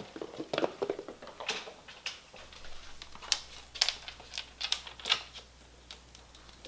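Kittens' paws pattering and scrabbling in play: an irregular run of quick taps and clicks, with a few duller thuds in the first two seconds.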